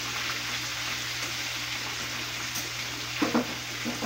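Chicken pieces deep-frying in hot oil in a pan, a steady sizzle, with a brief louder noise about three seconds in.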